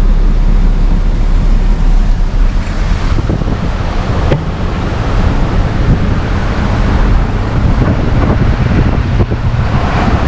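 Steady in-cab driving noise from a heavy tow truck: a low engine drone under tyre and road rumble and wind rushing, with one sharp click about four seconds in.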